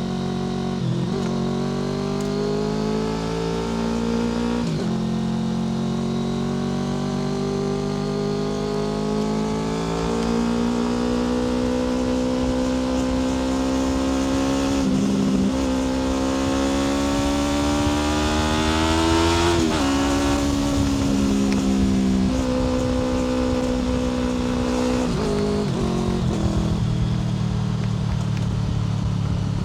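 Honda VFR800 FI's V4 engine through a Black Widow aftermarket exhaust, under way on the road. The note climbs slowly under throttle and drops sharply at each gear change, about five times, with a steady stretch near the end.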